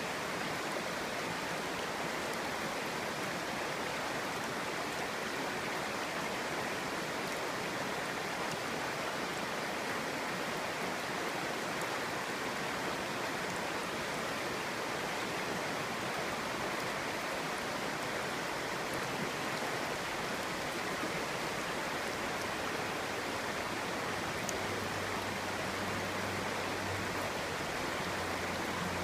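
Clear stream babbling over stones: a steady, even rush of flowing water.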